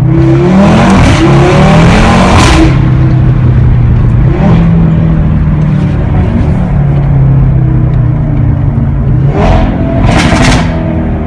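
Decatted Audi RS3 8V's turbocharged 2.5-litre five-cylinder engine heard from inside the car: it accelerates hard with a rising pitch over the first couple of seconds, settles into a steady drone, and revs up loudly again near the end.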